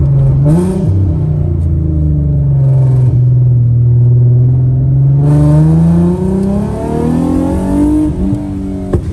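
Nissan VR30 twin-turbo V6, swapped into an Infiniti G37, pulling under throttle, heard from inside the cabin. The engine note holds steady, then climbs again about five seconds in as a rushing hiss joins it, and drops as the throttle is lifted. There is a single sharp click near the end.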